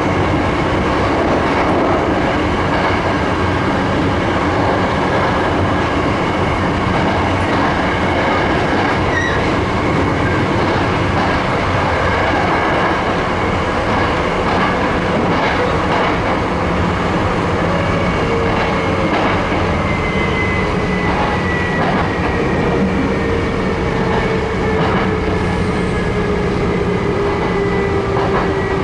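Sanyo 3200 series electric train running, heard from aboard: steady rumble of wheels on rail with light clicks over rail joints. In the second half a whine slowly falls in pitch.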